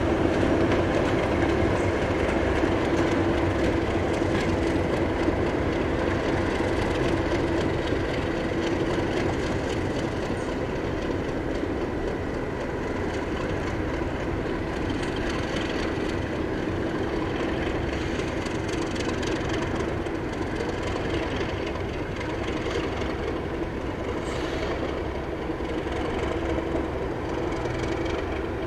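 A train running steadily: a continuous rumble with a steady hum, slowly getting quieter.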